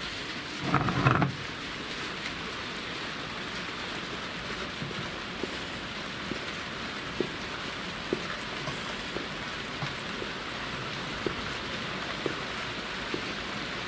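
Steady rain falling on wet ground and into an open pan of oil, with a brief knock about a second in.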